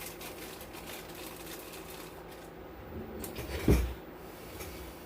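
Light clicks and rustling of small electronic parts and tools being handled on a workbench, with one sharper knock about two-thirds of the way through.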